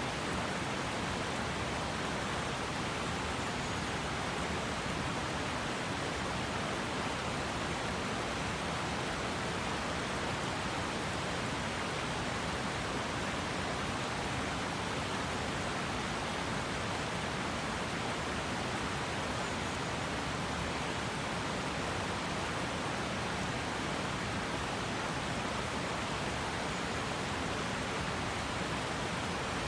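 River water rushing steadily, an even continuous hiss with no let-up.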